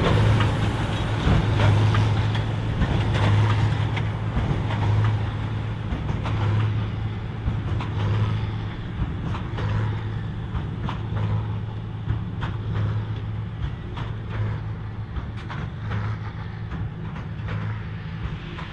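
John Deere 4955 tractor's six-cylinder diesel running under heavy load, pulling a Krone BigPack large square baler, with frequent sharp knocks through the engine note. The sound slowly fades.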